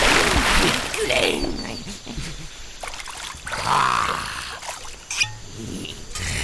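A man crashing into a shallow river with a loud splash that dies away over a couple of seconds, then water sloshing around him, with a few short grunts.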